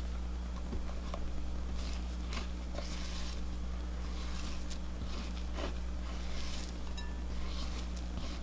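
Spatula scraping and folding macaron batter against the side of a mixing bowl in irregular soft strokes (macaronage), over a steady low electrical hum.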